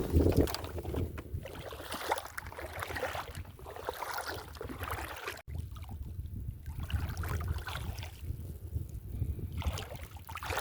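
Wind buffeting the microphone over sloshing water, a rough, uneven rumble that cuts out for an instant about five and a half seconds in.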